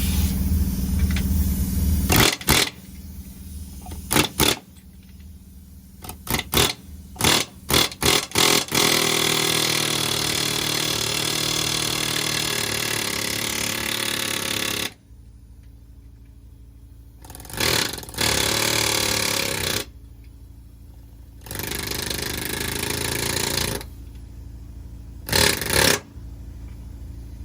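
Pneumatic air hammer hammering in bursts to drive a stuck driveshaft center bearing off the shaft: several short bursts, then a continuous run of about six seconds, then a few shorter runs. A steady low hum sits underneath.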